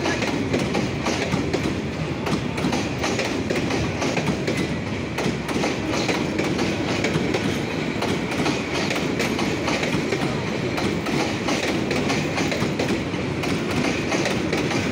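Vacuum-braked passenger coaches of an express train rolling past close by, their wheels clattering steadily over the rail joints.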